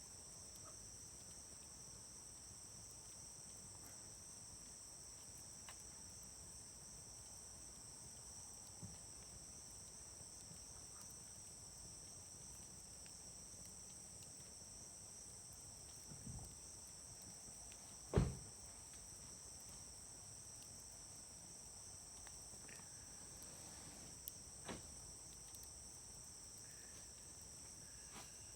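Wood campfire crackling faintly, with a few sharp pops from the burning wood; the loudest pop comes about two-thirds of the way in. Summer insects chirr steadily at a high pitch throughout.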